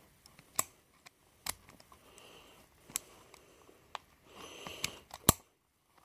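A handful of sharp, separate clicks and taps from the gearshift pen being handled, the loudest near the end, with soft breathing between them.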